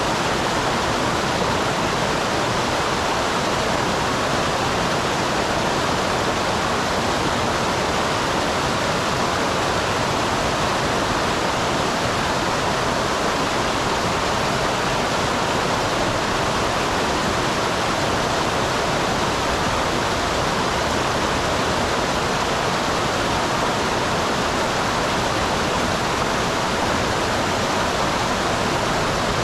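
Small waterfall on a mountain stream: a steady, unchanging rush of falling and flowing water.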